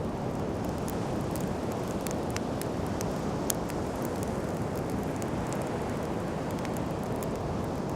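Wood campfire crackling, with many sharp pops scattered irregularly, one louder pop about three and a half seconds in, over a steady low wash of sea surf and wind.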